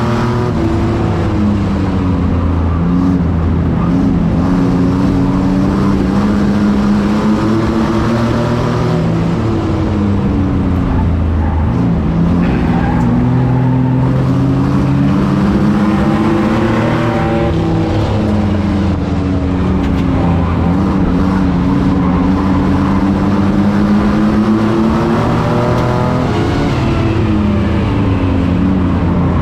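Racing truck engine running hard, its revs climbing and dropping over and over, about every eight seconds, with tyre and road noise beneath.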